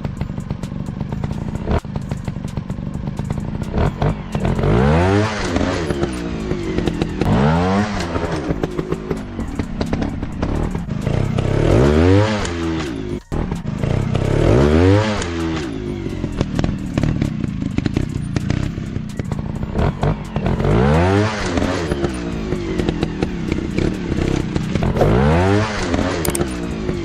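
Single-cylinder trail-bike engines running, revving up and back down again and again, each blip a rising then falling pitch, with scattered clattering knocks over the engine noise.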